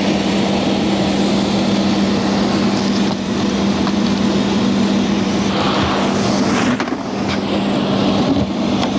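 HVAC unit running: a steady hum under a broad rush of moving air.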